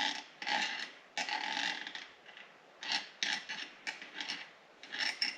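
Steel cylinder-head bolts being handled and oiled with a small oil can: about ten short metallic clicks and clatters at irregular intervals.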